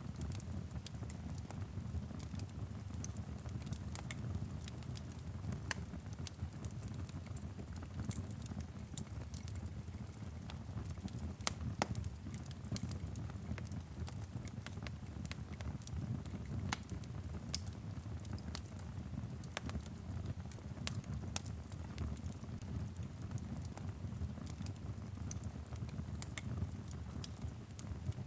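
Fireplace fire crackling, with irregular sharp pops over a steady low rumble, and light rain pattering on a window.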